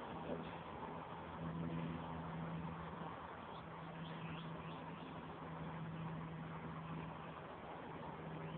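A steady low motor hum over a background rush, with a few faint high bird chirps around four seconds in.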